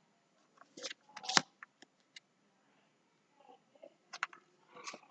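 Quiet room tone with a few faint, short clicks and taps, the loudest about a second and a half in.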